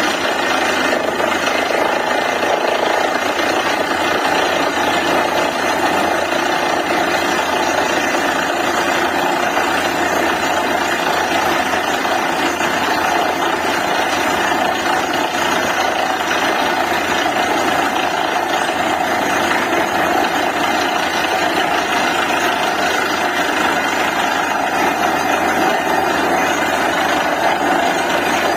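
DTH borewell drilling rig running: a loud, steady mechanical din without pauses.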